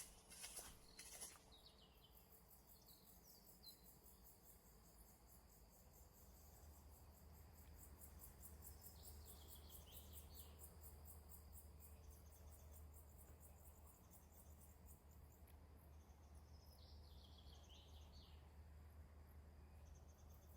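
Faint outdoor ambience: insects chirping in a fast, even pulse, like crickets, with a few short bird calls in small groups. A low steady rumble joins about six seconds in.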